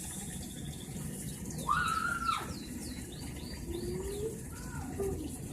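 Birds calling: a handful of short, quick calls that glide up and down in pitch between about two and four seconds in, over a faint steady hiss.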